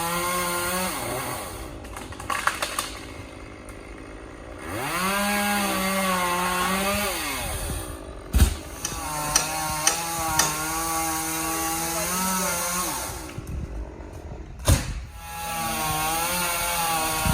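Gas chainsaw high in a dead oak, revved up in three long cutting bursts and dropping back toward idle between them. Sharp knocks cut in at about eight seconds and again near fifteen.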